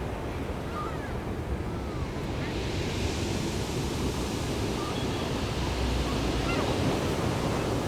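Ocean surf breaking on the shore, with a steady low rumble of waves; a fresh wash of surf swells up a couple of seconds in and hisses on.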